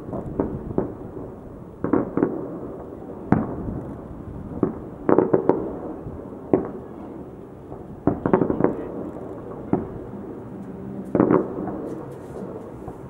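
Fireworks display: shells bursting overhead in sharp bangs at irregular intervals, a dozen or so, several coming in quick clusters, with a low rumble lingering between them.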